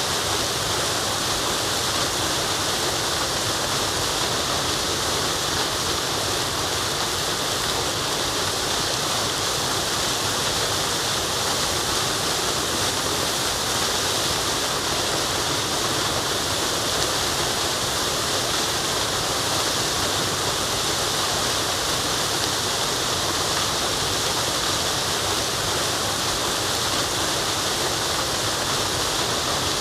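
Waterfall: a steady, unbroken rush of falling water, hissy and even, with no change in level.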